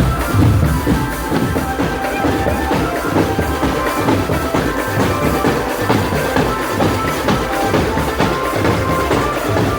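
Marching drum band playing: a steady beat of bass drums and snares, with a short-note melody carried above it.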